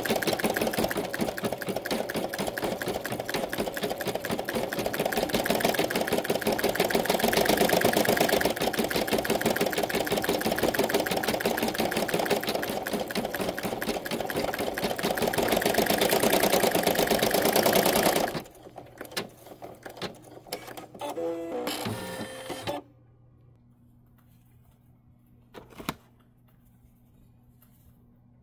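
Embroidery machine stitching at high speed with a rapid, even rhythm, stopping abruptly about 18 seconds in; a few short, quieter mechanical whirs and clicks follow, then low-level quiet with a single click near the end.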